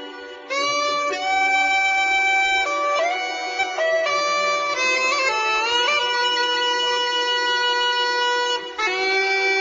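Bagpipe music: a melody of held notes played over a steady drone, with a short break just before the end.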